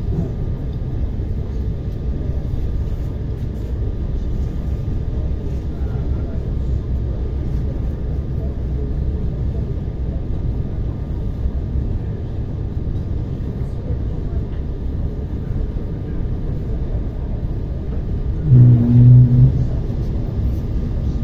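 ER9T electric multiple unit running between stops: a steady low rumble of wheels and running gear. Near the end a louder low tone sounds in two short pulses.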